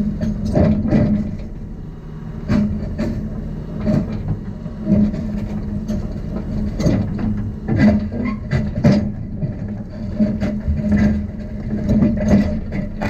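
Heavy diesel machine engine running steadily, with repeated irregular metallic clanks and knocks over it, typical of a tracked excavator or tractor and low-loader rig being worked during loading.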